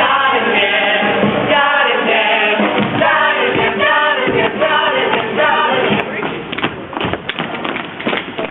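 Several voices singing a tune together over music, with a few sharp taps near the end.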